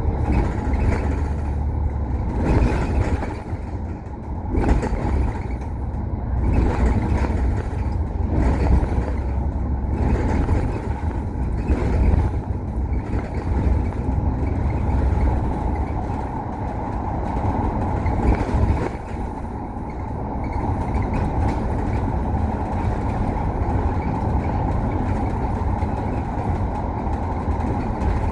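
A bus running, with its engine and road noise giving a strong, steady low rumble. Through the first half the noise swells and dips about every two seconds; from about two-thirds of the way in it evens out.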